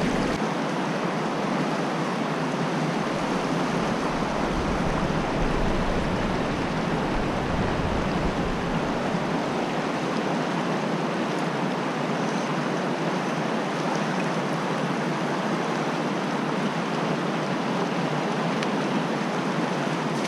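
Fast-flowing creek water rushing over rocks: a steady, even rush of running water.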